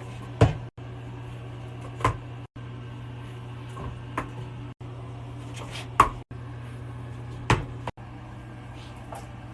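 A steady low hum with about five sharp knocks or taps, spaced a second or two apart.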